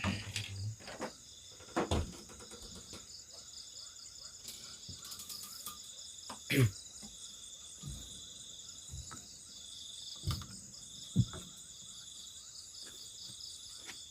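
Night-time insect chorus: a steady, shrill, pulsing trill, broken a few times by short knocks and thumps.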